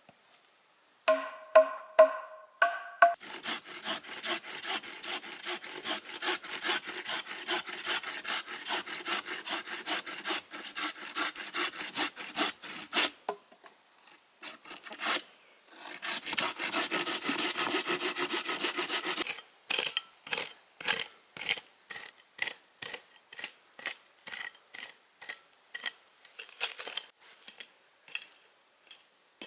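A hand tool working wood in fast, regular back-and-forth strokes, like sawing or rasping, after a few ringing knocks at the start. The strokes pause briefly past the middle, then come as slower separate strokes near the end.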